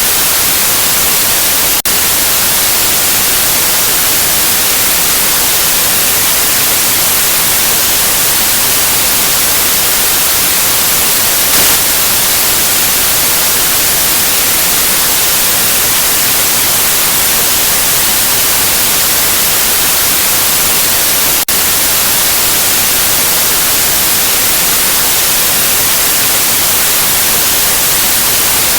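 Steady, loud white noise: an even hiss across all pitches. It dips for an instant twice, about two seconds in and again about twenty-one seconds in, with a short, slightly louder blip about halfway through.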